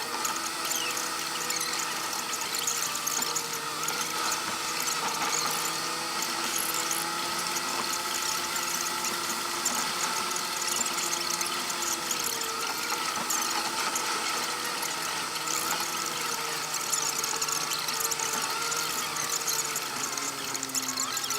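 A vehicle engine running with a steady squealing whine over a crackling rattle. The pitch wavers slightly and drops near the end.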